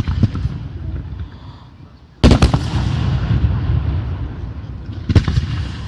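Fireworks exploding: a sharp bang about two seconds in and another near the end, each followed by a long rolling rumble that slowly dies away.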